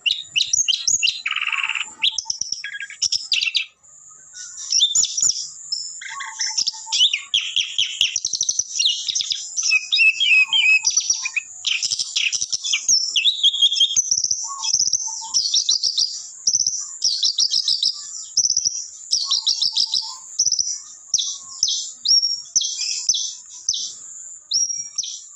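Long-tailed shrike (cendet) singing energetically in its full, varied song: rapid runs of chattering, trilling and whistled phrases, packed with borrowed notes from other birds, with a brief pause about four seconds in.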